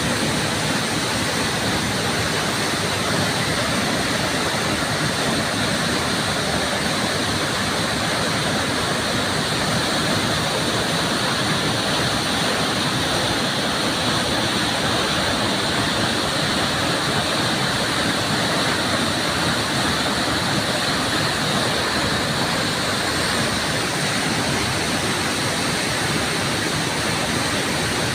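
Waterfall splashing and rushing steadily, a constant even roar of falling water with no breaks.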